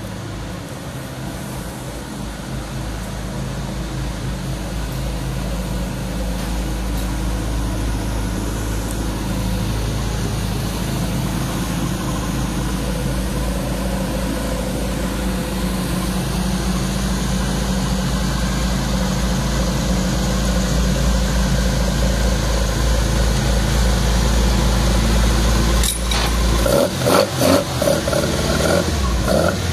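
Toyota AE86 drift car's engine idling steadily, growing gradually louder, then revved in a series of short throttle blips for the last few seconds.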